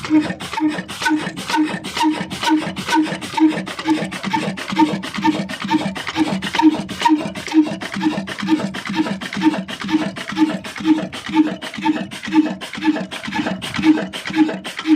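Old Ruston black diesel engine running steadily with an even, regular beat of about two and a half strokes a second.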